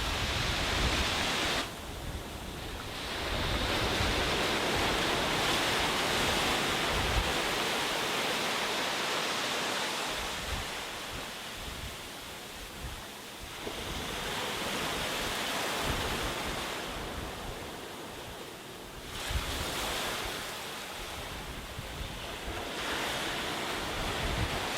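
Sea waves washing onto a beach, the rush of surf swelling and falling back every several seconds, with low wind rumble on the microphone.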